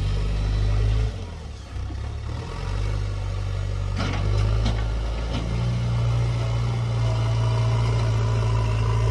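Heavy diesel engine running under changing load: its steady low drone drops about a second in, builds back, and steps up in pitch around the middle. A couple of short knocks come about four seconds in.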